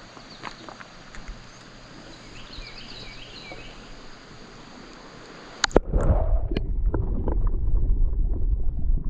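Steady rushing of stream water with a few faint chirps. About six seconds in there is a sharp click, then loud low rumbling with scattered knocks.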